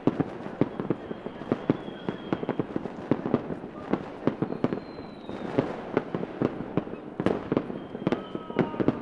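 Fireworks going off: a dense, irregular string of bangs and pops over a steady crackle. A few high, thin whistles fall slightly in pitch, one about five seconds in and a pair near the end.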